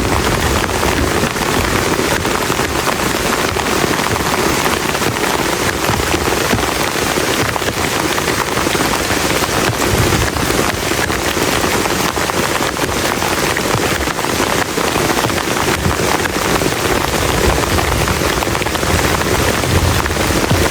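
Heavy rain pelting down steadily on a plastic tarp shelter, a dense patter of countless drops, with a low rumble underneath.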